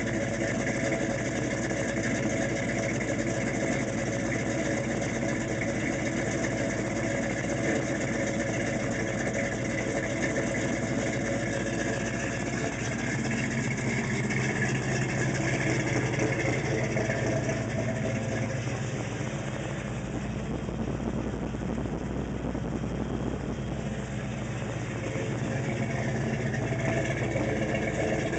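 Big-block Chevy V8, a 396 bored .060 over to 408 cubic inches, idling steadily through Summit chambered mufflers on a 1968 Chevelle. It goes a little quieter for a few seconds past the middle.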